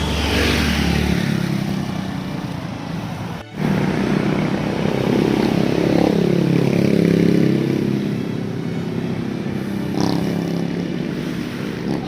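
Motor vehicles passing close by on the road, their engine pitch falling as they go past; one passes near the start, and a louder one passes midway.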